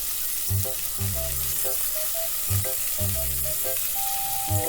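Minced garlic and ginger sizzling steadily in hot olive oil in a pan, with soft background music with a repeating low beat.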